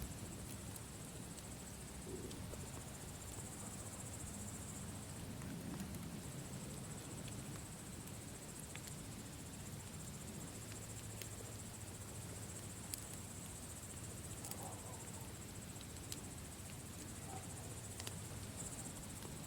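Campfire crackling, with scattered sharp pops over a low steady rumble, while crickets chirp in a continuous high trill.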